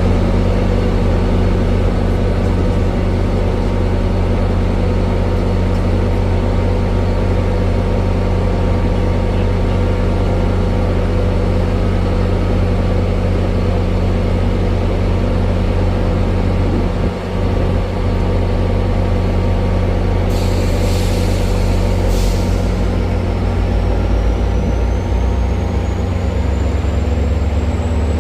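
Diesel train locomotive idling at a station with a steady low engine hum. About twenty seconds in come two short bursts of air hiss from the brakes, followed by a faint whine that rises slowly in pitch.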